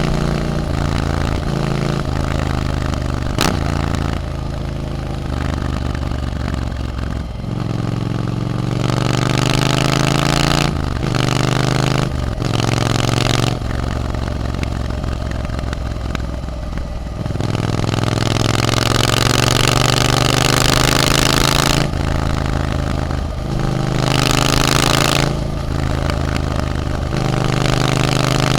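A Triumph Scrambler 900's parallel-twin engine through an Arrow aftermarket exhaust, pulling through the gears while riding. Its pitch climbs, then drops back at each gear change, several times over. Wind rushes over the microphone, louder in places.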